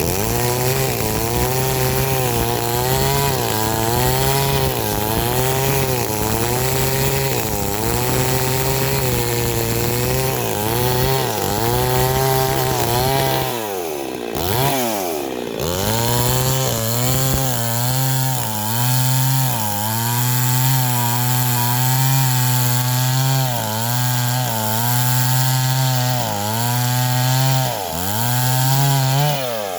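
Small engine running under load, its pitch wavering up and down, dropping away briefly about halfway through and again near the end before picking back up.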